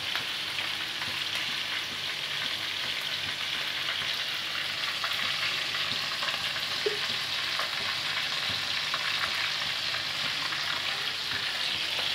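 Minced-meat koftas frying in hot oil in a pan: a steady sizzle.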